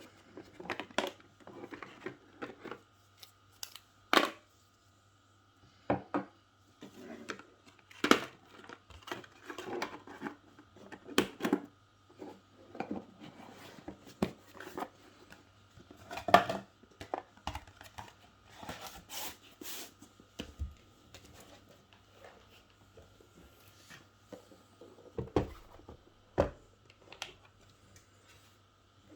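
Irregular clicks, taps and rustles of small objects being handled, over a faint steady hum.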